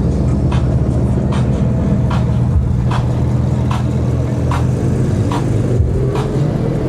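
Car engine running at a low idle, with short, evenly spaced ticks a little more than once a second over it.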